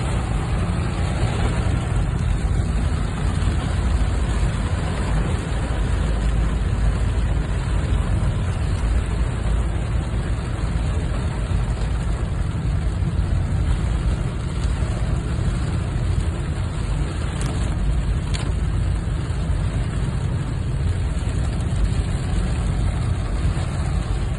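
Steady noise of rain on a roadway with a constant low rumble of vehicle traffic.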